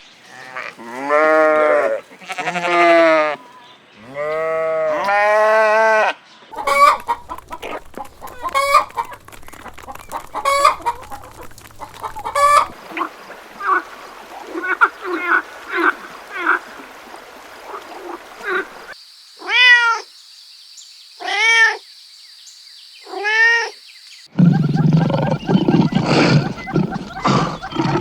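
A run of calls from several animals. First come four drawn-out calls that rise and fall in pitch. Then come many short calls like those of chickens, then a few calls that fall in pitch, and a loud, low, rough sound over the last few seconds.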